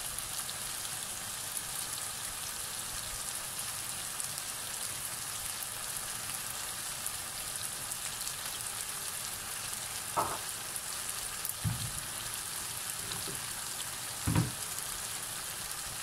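Diced chicken, onions and peppers sizzling steadily in a frying pan, a fine high hiss, with a few brief low knocks in the second half.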